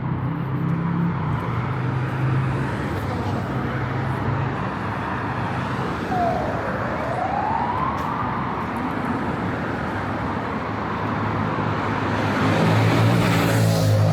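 City road traffic: steady noise of cars passing, with a low engine hum near the start and again near the end, and a vehicle passing close about thirteen seconds in. About six seconds in, a single tone dips and then rises in pitch over about two seconds.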